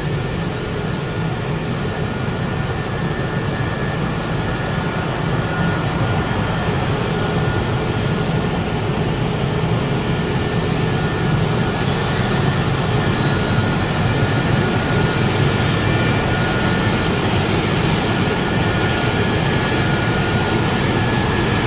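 Wood pellet production line machinery running steadily: a loud, even mechanical drone with a few faint steady tones above it.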